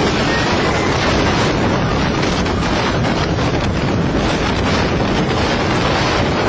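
Strong storm wind blasting across the microphone: a steady, loud rush with deep rumbling buffeting.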